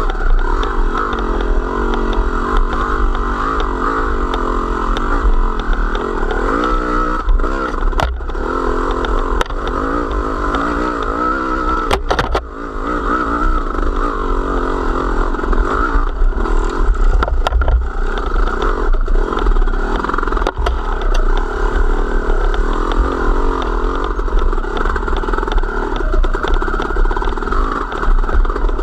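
A small vehicle's engine running under way, its pitch wavering up and down with the throttle, with a low rumble and scattered rattling knocks from the vehicle over rough ground.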